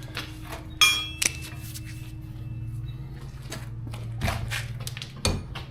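Hammer blows knocking out an old garage door jamb, a few separate strikes over a steady low hum. The first and loudest strike rings on with a metallic tone for about two seconds.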